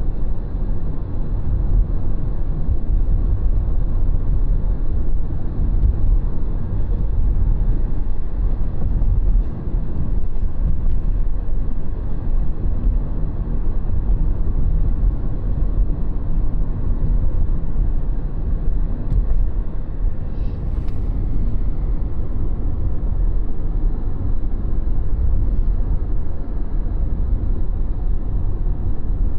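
Steady low rumble of a moving train heard from inside the carriage, with one short click about two-thirds of the way through.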